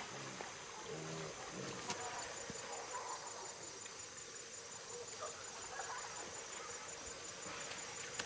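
A pig grunting a few times, short and low, in the first two seconds, over steady insect buzzing that goes on to the end.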